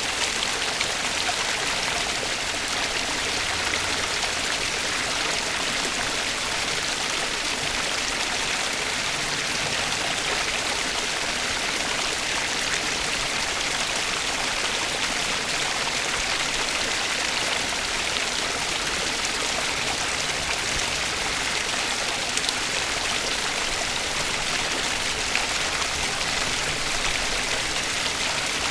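Flowing water from a stream, a steady even rush and babble.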